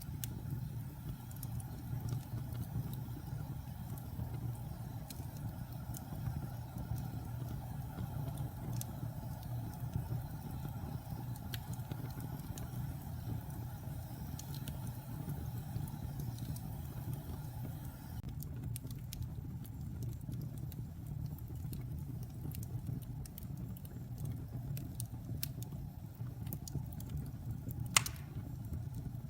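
Wood fire burning in a fireplace: a steady low rumble of flames with scattered small crackles, and one sharp pop near the end.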